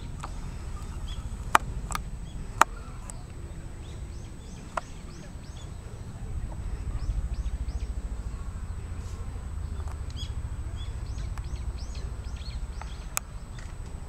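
Small birds chirping in quick runs of short, high, falling notes, over a steady low rumble. Two sharp clicks, the loudest sounds, come in the first few seconds.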